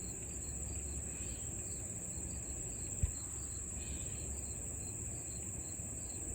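Steady high-pitched insect trilling, with fainter repeated chirps beneath it and a low rumble of handling or wind; a single short knock about three seconds in.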